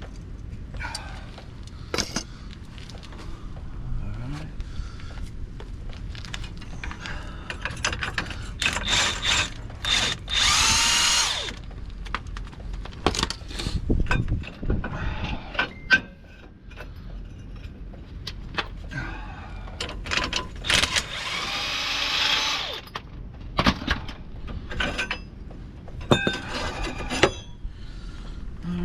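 Cordless power tool running in two bursts of a few seconds, its motor pitch rising as it spins up, taking the nuts off the U-bolts of a rear axle. Scattered metal clinks and knocks of hand tools and parts come between the bursts.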